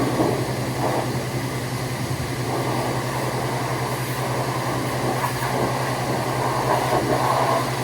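An engine running steadily at a constant speed, a low even hum with a haze of noise over it.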